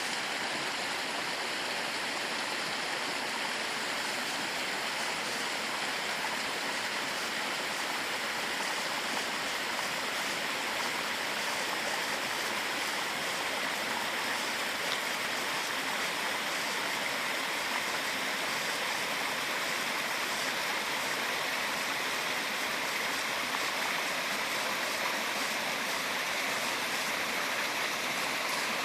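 Waterfall splashing over rocks into a stream, a steady rush of falling water.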